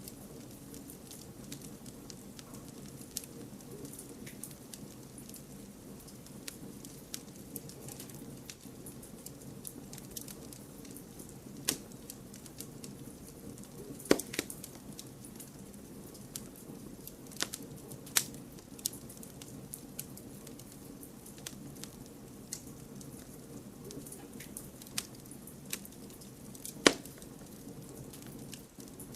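Campfire burning with a steady low rush and irregular crackles and pops of the burning wood, a few sharp loud pops standing out, the loudest about halfway through and again near the end.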